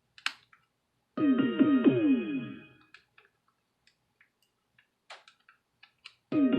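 A mini wireless speaker plays its short piano-like prompt chime, a quick run of falling notes, right after a click of its button. A few light clicks follow, and the same chime starts again near the end. The chime is the sign that the repaired speaker is powering up and working again.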